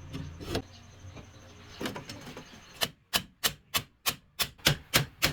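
Repair work on a rice mill's holed sieve screen: a few scattered knocks, then a rapid, even run of sharp taps, about four a second, from about three seconds in.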